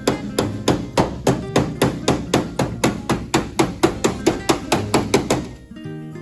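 Hand hammer striking sheet metal in a quick, even rhythm, about four blows a second, stopping about five and a half seconds in.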